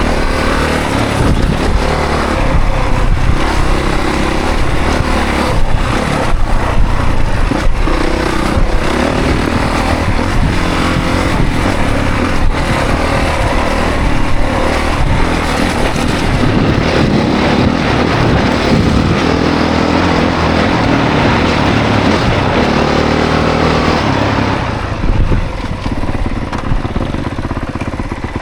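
2024 Honda CRF450 dirt bike's single-cylinder four-stroke engine revving up and down as the bike is ridden hard along a trail; the engine note drops away near the end as the bike slows.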